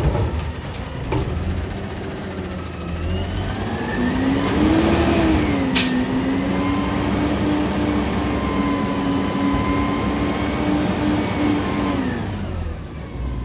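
Peterbilt 520 front-loader garbage truck's diesel engine revving: it rises about four seconds in, holds steady at high revs for around eight seconds, then drops back near the end. A single sharp click sounds about six seconds in.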